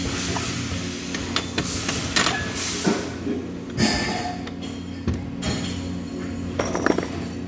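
Metalwork sounds: scattered metal clinks and knocks over a steady machinery hum, with short bursts of hiss.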